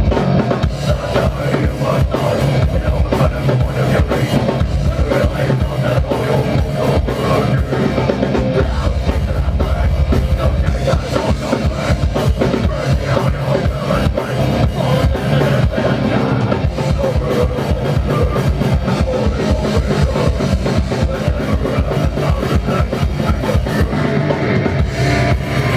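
Live progressive death metal band playing loud, with a fast, steady bass-drum pattern driving the drum kit under heavy guitars.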